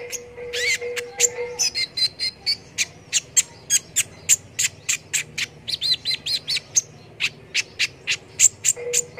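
Kolibri ninja (konin) sunbird singing energetically: a fast, unbroken run of sharp high chirps, a few each second, broken by quick warbling trills about two seconds in and again around six seconds.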